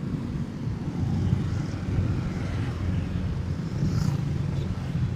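Motorcycle engine running steadily while riding, a low hum with wind and road noise over it.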